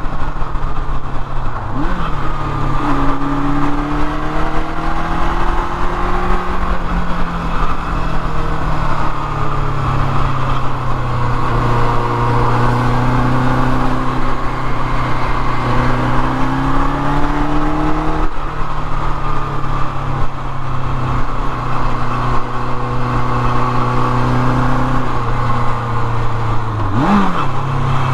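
1979 Kawasaki KZ650SR's air-cooled inline-four engine under way, its pitch climbing and falling again and again as it accelerates through the gears and eases off, with a quick rise and drop near the end.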